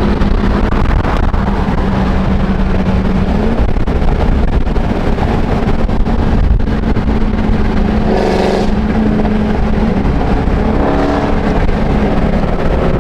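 Car engine running steadily with road and wind noise while driving, a low drone that shifts pitch slightly a few seconds in.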